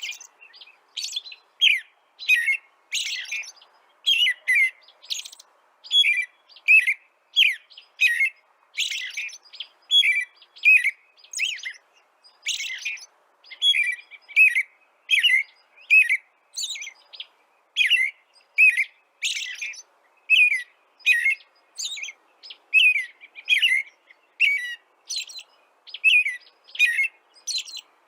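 A bird chirping over and over without a break: short, high, downward-sweeping chirps at about two a second.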